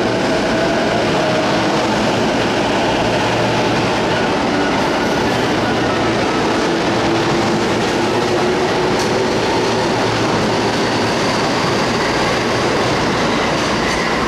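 Electric commuter train passing close by: a steady rumble of wheels on the rails, with a motor whine that slides slowly in pitch and a few sharp clicks from the wheels.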